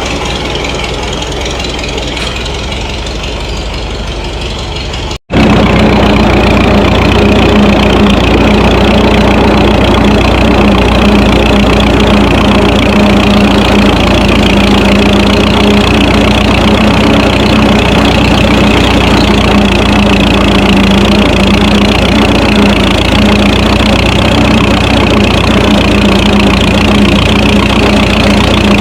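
Minneapolis Moline tractor engine running steadily. About five seconds in there is an abrupt break, after which the engine sounds closer and louder, with a steady low hum.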